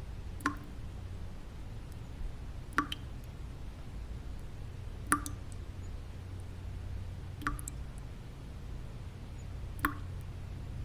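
Single water drops falling one at a time at a slow, even rhythm, about one every two and a half seconds, each a short, clear plop, over a steady low-pitched white-noise bed.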